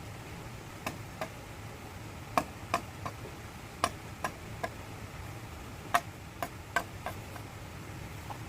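Irregular sharp knocks and taps on bamboo, about fourteen of them, each with a short hollow ring, over a steady low hum.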